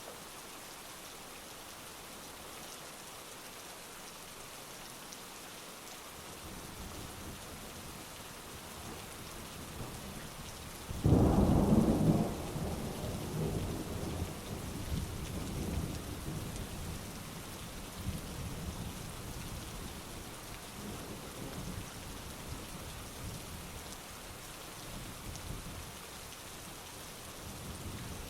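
Steady heavy rain with thunder: a low rumble builds, then a loud thunderclap about a third of the way in, rolling on and slowly fading over the next several seconds.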